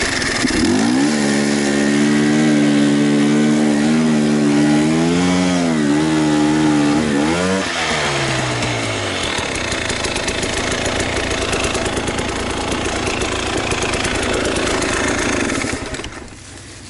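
Enduro motorcycle engine running and revving, its pitch rising and falling repeatedly through the first half. A steady loud rushing noise follows and cuts off suddenly near the end.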